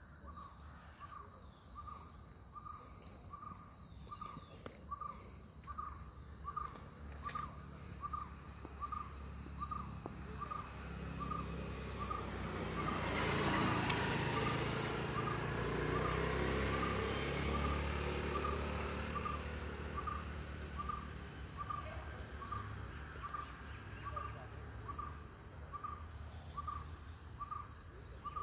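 A bird repeating one short note over and over, about two a second, at a steady pace. A broad rushing noise swells up and fades away about halfway through.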